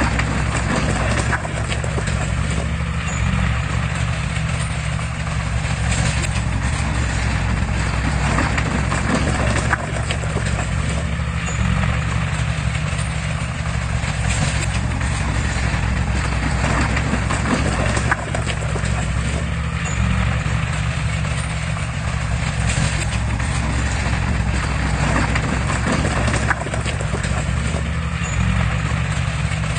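Heavy earthmoving machine's diesel engine running steadily under load, with scattered light clanks.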